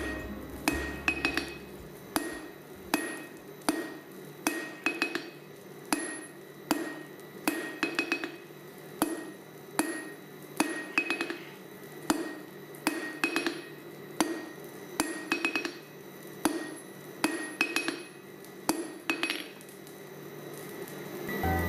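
Hand hammer striking steel bar on an anvil while forging a poker, about one blow a second, some as quick double or triple taps, each with a metallic ring.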